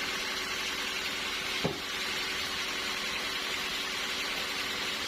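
Sawmill machinery running steadily: a constant hiss with a faint low hum under it, and one brief clunk about a second and a half in.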